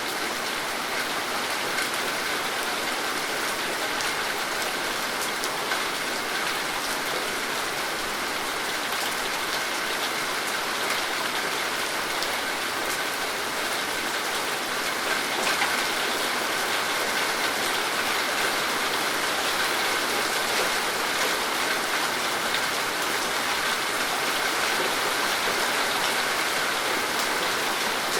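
Steady rainfall: an even hiss of rain with faint scattered drop taps, holding at a constant level throughout.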